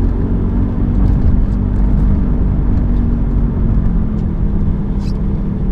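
Steady low road rumble and drone of a 1995 BMW E36 318i driving along, its four-cylinder engine and tyres running evenly. Part of the drone is the worn rear wheel bearing noise, a little better with one rear bearing replaced but the other still worn.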